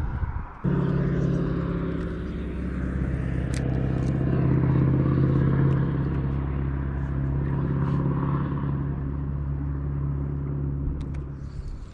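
Jon boat's outboard motor running steadily at a constant pitch. It starts suddenly just under a second in and drops away near the end as the boat slows.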